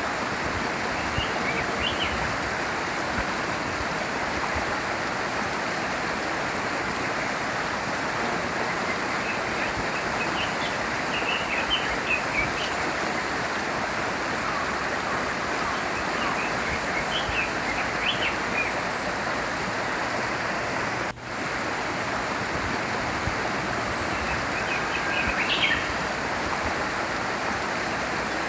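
A small stream flowing steadily, with small birds chirping in short, scattered bouts over the water. The water sound drops out for an instant about two-thirds of the way through.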